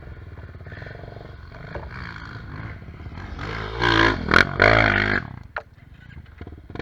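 Trail motorcycle engine running, then revved hard and loud for about a second and a half midway, the pitch swinging up and down as the throttle is worked on a steep hill climb, before dropping back.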